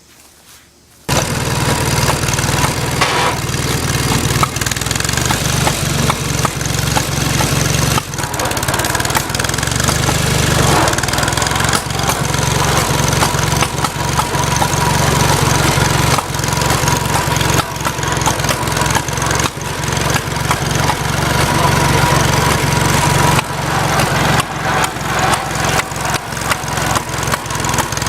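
Farmall Cub tractor's four-cylinder engine, which cuts in abruptly about a second in and then runs steadily and loudly, with many short irregular pops through it: the popping noise the owner is asking about.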